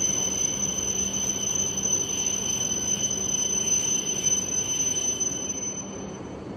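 E3-2000 and E2 series Shinkansen train pulling slowly out of the station. The cars are running past with a steady rumble and a thin high whine; the whine drops out and the noise eases slightly near the end.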